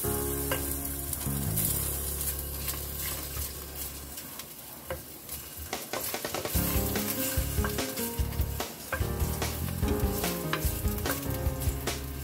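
Sliced ginger sizzling in hot oil in a pot while a wooden spoon stirs it, the spoon scraping and tapping against the pot with clicks coming thicker in the second half. Background music plays underneath.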